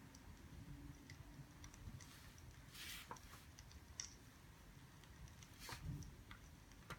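Faint crackling of a wood fire: irregular sharp pops and clicks over a low rumble, with a soft rustling swish about three seconds in.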